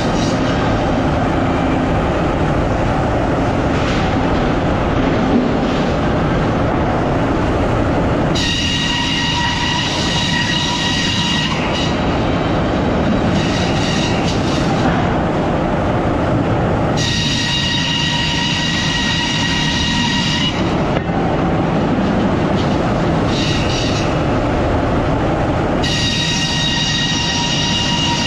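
Sawmill machinery running loud and steady. A high, steady saw whine comes in three times, each spell lasting about three seconds.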